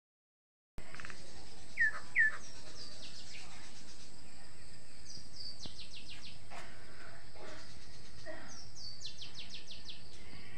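Birds calling over a steady hiss that starts abruptly about a second in: two short falling chirps, then two quick runs of high, rapidly repeated notes later on.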